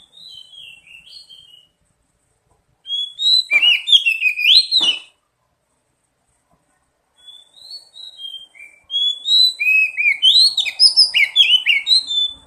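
Oriental magpie-robin singing: varied clear whistled phrases with quick rising and falling notes, a short faint phrase at the start, a loud phrase about three seconds in, and a longer loud run from about seven seconds on.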